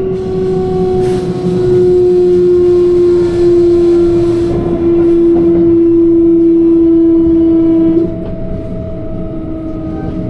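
Kintetsu electric train running, its motors whining with a strong steady tone that slowly falls in pitch and cuts off about eight seconds in, over the rumble of the running gear.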